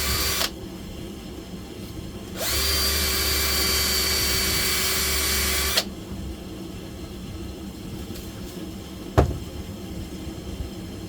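A power tool runs in two spells: it stops about half a second in, then spins up again for about three seconds before cutting off. A single sharp knock comes near the end.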